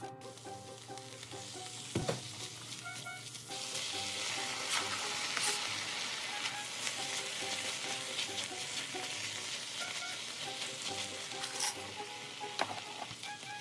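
Diced onion sizzling as it fries in oil in a wok. The sizzle grows louder a few seconds in, once cubed beef and shrimp are in the pan, with a few light knocks.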